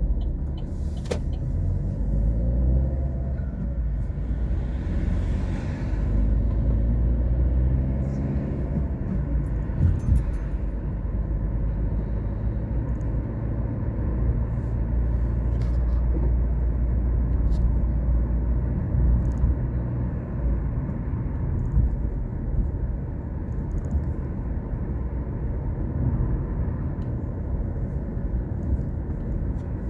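Car driving along a road: a steady low engine and road rumble, with a few faint short clicks.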